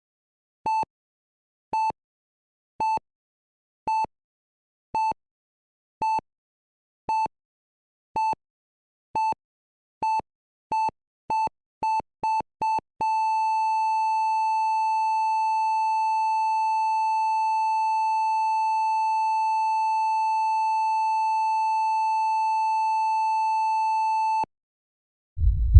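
Hospital heart monitor beeping about once a second, the beeps quickening from about nine seconds in, then going into a continuous flatline tone that holds for about eleven seconds and cuts off suddenly: the monitor's sign that the heart has stopped. A low thump follows just at the end.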